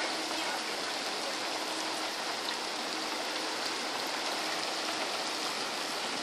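Steady rain falling during a thunderstorm, an even hiss with no break.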